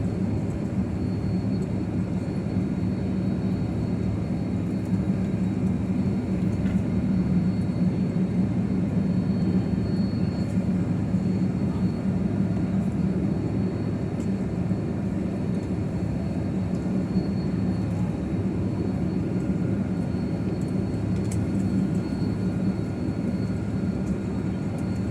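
Steady cabin noise inside a jet airliner taxiing after landing. The engines are at idle and the cabin air system is running, giving an even low rumble with a steady hum under it.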